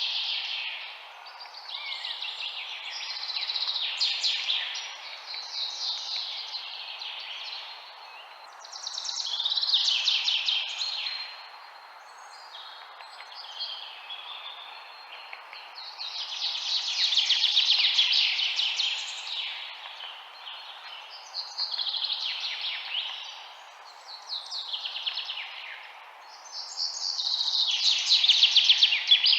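Birds chirping: short, rapid trilled song phrases, one every two or three seconds, over a steady background hiss. The loudest phrases come about two-thirds of the way through and at the end.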